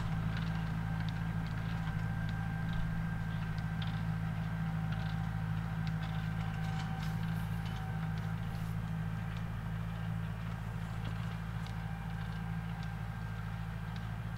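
McCormick X10 tractor's diesel engine running at a steady speed while tilling, with scattered light ticks and clicks over the engine note.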